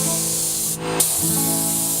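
Spray paint hissing out of a nozzle in a steady stream, stopping for a moment near the middle and starting again. Background music plays underneath.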